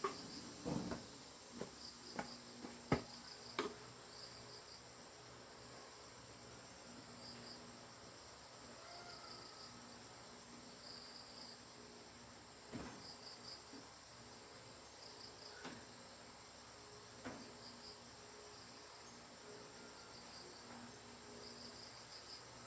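Crickets chirping in short repeated pulses over a steady high insect whine, with a handful of sharp knocks in the first few seconds and a few more later.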